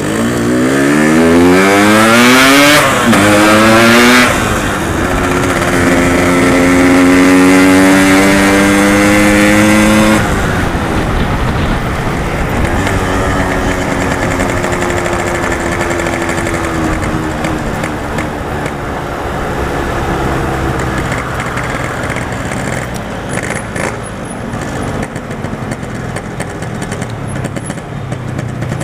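Yamaha RX-King's two-stroke single-cylinder engine pulling away, its pitch rising through two gears with a dip at each shift, then held high and steady. About ten seconds in it eases off and runs on more quietly at a lower, steady pitch.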